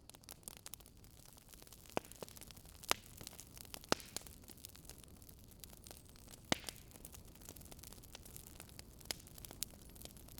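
Wood fire burning, with irregular sharp crackles and pops over a steady low hiss; the loudest pops come about 3, 4 and 6.5 seconds in.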